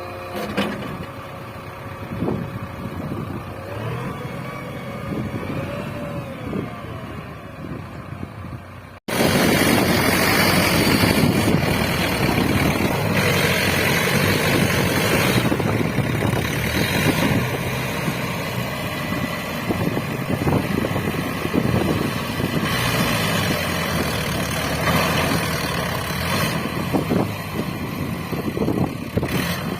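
JCB 3DX backhoe loader's diesel engine working as it digs and loads soil, its pitch rising and falling with the revs. About nine seconds in there is a sudden cut to a louder, rougher engine sound.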